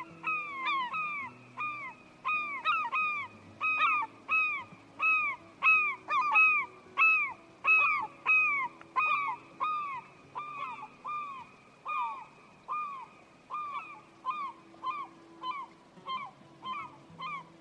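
A bird calling over and over, about two short calls a second, each rising and then falling in pitch.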